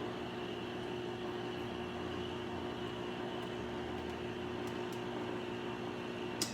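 A small electric kitchen appliance running with a steady hum, cutting off with a click near the end.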